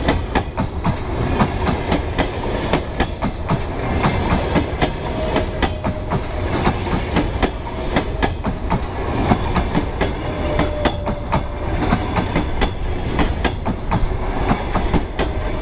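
Passenger coaches rolling past, their wheels clattering over the rail joints in a steady stream of clicks over a continuous rumble.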